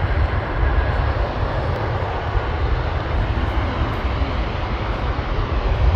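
Jet airliner engines heard from close to the runway as the aircraft comes in to land: a steady deep rumble under a broad roar.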